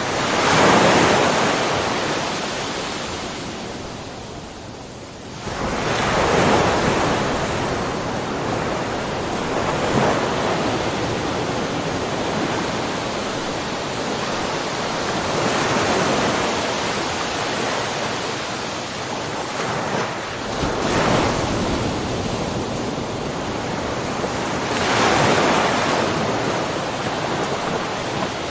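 Ocean waves breaking and washing in a steady rush, each swell rising and fading every few seconds.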